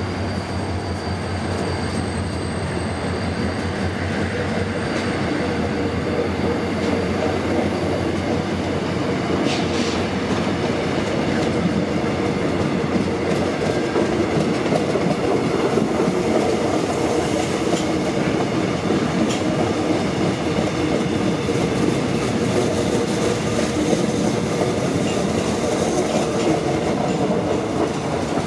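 A train running along the tracks out of view: a steady rail noise with wheel clatter, building over the first several seconds and then holding.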